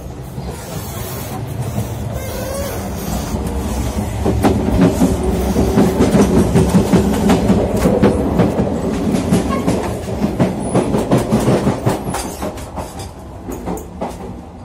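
Passenger train running, heard from inside: a loud rumble with the clickety-clack of wheels over the rail joints and many sharp clatters. It swells for several seconds in the middle and eases near the end.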